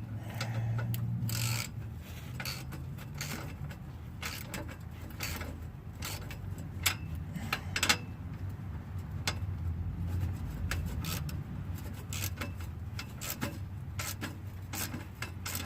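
Hand wrench tightening the nuts on exhaust pipe clamps: irregular metallic clicks and short scrapes as the tool works the nuts, over a steady low hum.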